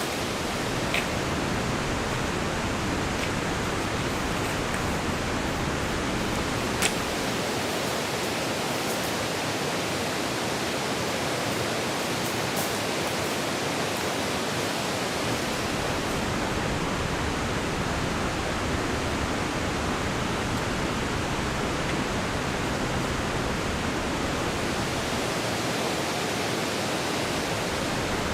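Steady rush of water, with a short click about a second in and another near seven seconds.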